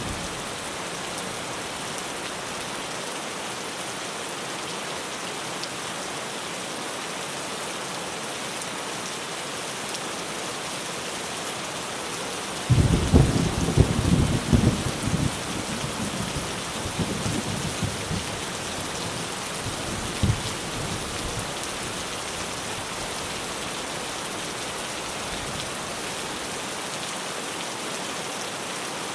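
Rain falling steadily on a tin roof. About thirteen seconds in, thunder breaks out suddenly and rumbles for a few seconds, then dies away, with one last sharp crack about twenty seconds in.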